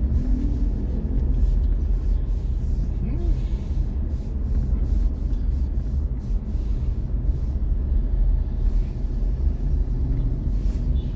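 Car driving along a city road: a steady low rumble of engine and road noise.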